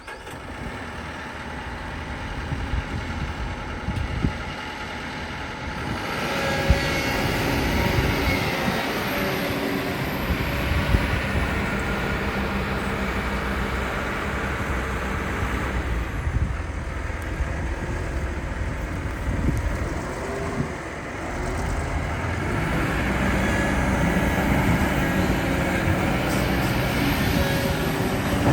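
Heavy diesel engine of an excavator running steadily under load, getting louder about six seconds in, with a few sharp metal knocks.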